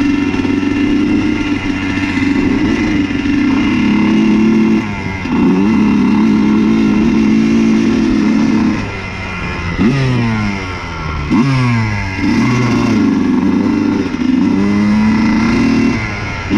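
Honda CR125's single-cylinder two-stroke engine being ridden hard, held at high revs for several seconds with a brief drop about five seconds in. In the second half it blips the throttle over and over, about once a second, the pitch shooting up and falling away each time.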